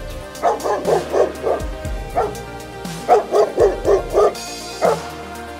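Dog barking: two quick runs of about five short barks, with single barks between and after, over background music.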